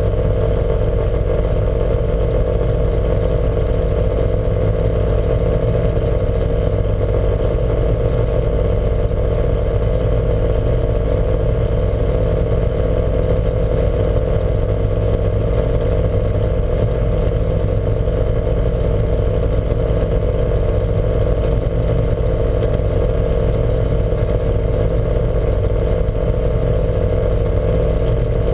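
Lancia Montecarlo's engine running steadily at an unchanging speed, with no revving.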